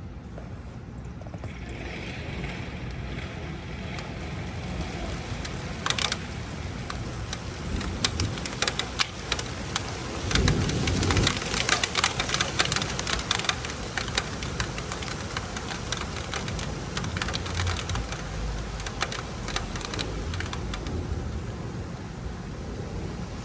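Rain starting to fall: separate drops hitting a surface become a dense patter within a few seconds, then thin out somewhat near the end. A low rumble comes in about ten seconds in.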